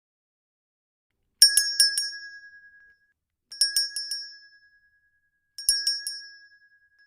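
A short bell-like chime, made of a quick run of about four clicks over a ringing tone that fades within a second. It comes three times, about two seconds apart.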